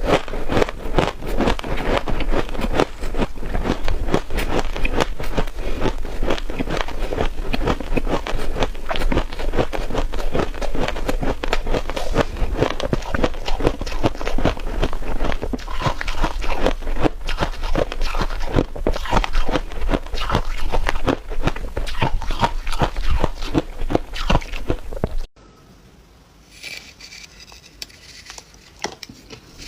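Close-up crunching and chewing of freezer frost, a dense run of rapid crackly bites. About 25 seconds in it cuts off suddenly, leaving a much quieter stretch with only faint small sounds.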